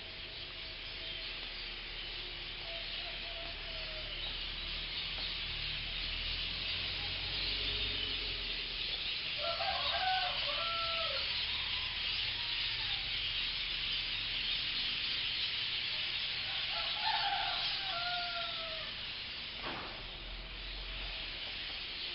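A flock of birds gathered in a tree, chattering together as a steady high din. Two louder drawn-out calls stand out over it, about ten and seventeen seconds in, and there is a single sharp click near the end.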